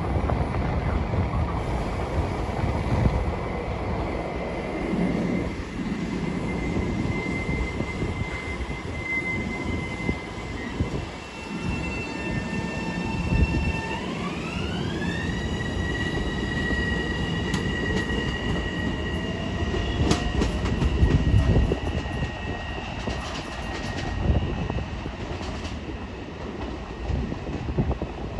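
Long Island Rail Road train running through the station with a continuous rumble, and high whining tones. About halfway through, a set of those tones rises in pitch together and then holds, and there are rail clicks in the later part.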